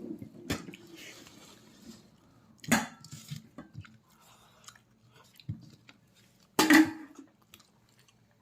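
Close-up eating sounds of someone chewing pork leg: wet chewing with a few sharp, louder bites or smacks, the loudest near the end.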